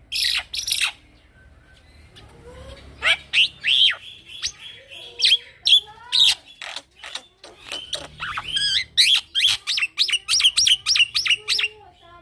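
Young male black-winged myna (jalak putih) singing in a continuous rolling song of sharp whistles, harsh chips and quick down-slurred notes. Near the end it breaks into a fast run of about six notes a second.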